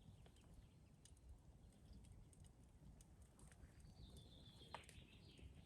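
Near silence: faint outdoor ambience with a few soft ticks, and a faint high whistling tone that comes in about four seconds in.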